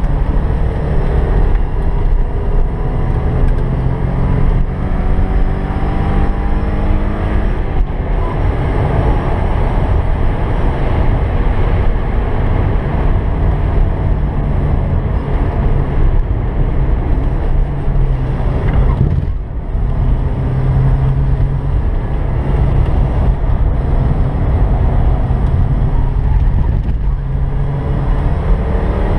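1986 Porsche 944's naturally aspirated 2.5-litre four-cylinder engine pulling hard under load on track, heard from inside the cabin, with revs rising over the first several seconds and a brief dip in sound a little past the halfway point.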